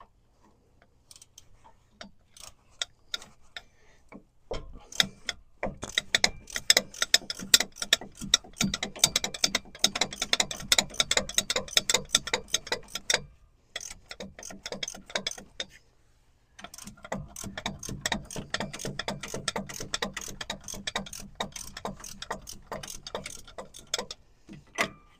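Hand ratchet clicking as it turns the hub-bearing mounting bolts on a truck's steering knuckle. A few scattered clicks come first, then two long runs of rapid, steady clicking with a short pause between them.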